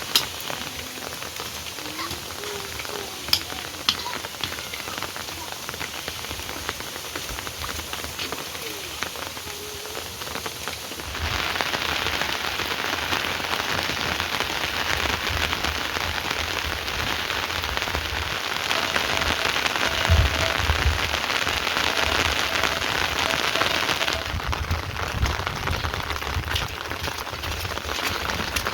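Heavy rain falling steadily, a dense hiss that grows suddenly louder about eleven seconds in and eases a little near the end. A few sharp drip knocks sound in the first few seconds.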